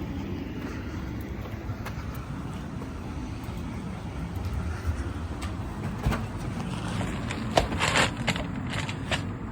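Car cabin road noise while driving: a steady low rumble with scattered clicks, and a louder rustling burst about eight seconds in.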